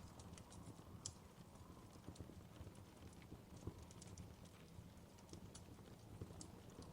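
Wood fire crackling in a fireplace: faint, irregular pops and snaps over a low, steady rumble.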